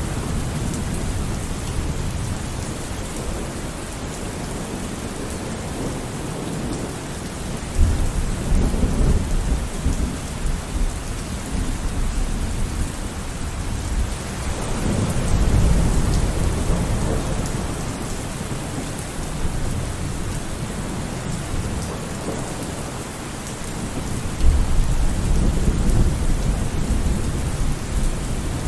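Thunderstorm: steady rain hissing, with thunder rumbling in low rolls three times, about 8, 15 and 25 seconds in.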